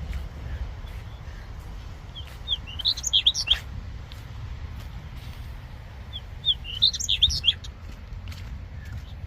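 A small songbird singing two short phrases of quick, high chirping notes, about four seconds apart, over a steady low rumble.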